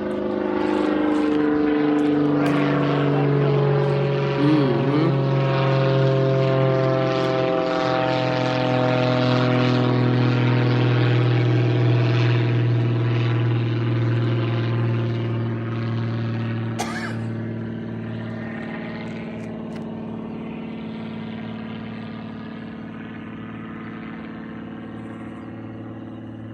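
Propeller-driven aircraft flying past, its engine and propeller drone holding loud and then fading away over the last ten seconds as it moves off, the pitch easing slowly down. A single sharp click partway through.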